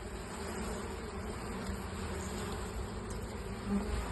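Honeybees, Buckfast strain, buzzing in a steady drone around an opened hive, with one brief louder buzz near the end.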